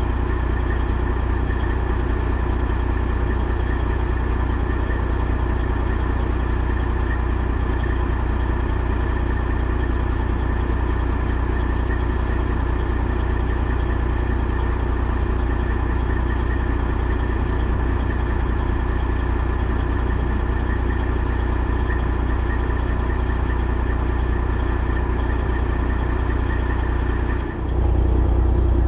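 Semi truck's diesel engine running at a steady drone, with a brief dip near the end.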